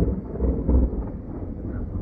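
Thunder rumbling just after a close clap, rolling unevenly with a couple of louder swells in the first second before settling to a lower steady rumble.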